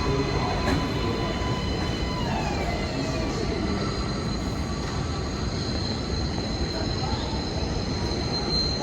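New York City subway train running through the station: a steady rail rumble with high whining tones, a few of which drop in pitch and fade about two to three seconds in.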